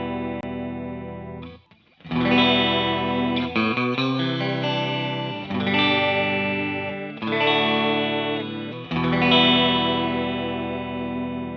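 Electric guitar chords played on a Fender Telecaster on its middle pickup position, through a Behringer Chorus Orchestra chorus pedal into a Fender Blues Junior amp. Each chord is strummed and left to ring. A new chord comes roughly every two seconds, after a brief break about two seconds in.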